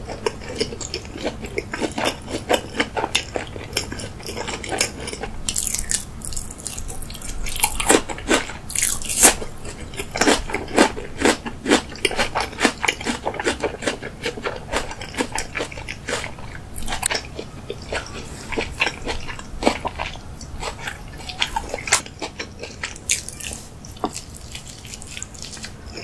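Close-miked chewing of a mouthful of salmon: wet, squishy mouth sounds and lip smacks, a dense irregular run of short sharp clicks.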